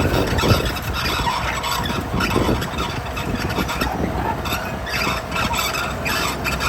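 Heavy earthmoving machine's engine running steadily, with metallic squealing and scraping over it.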